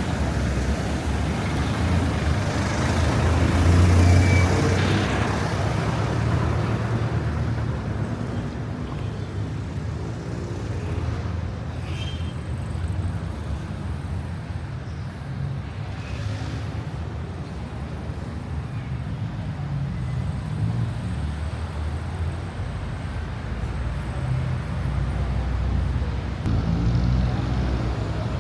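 Road traffic: cars and other vehicles passing on a busy road, a steady low rumble that swells as one goes by about four seconds in.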